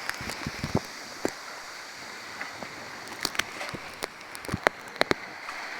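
Steady rushing water noise with scattered sharp clicks and taps through it, as of water running and splashing along a sailboat's hull.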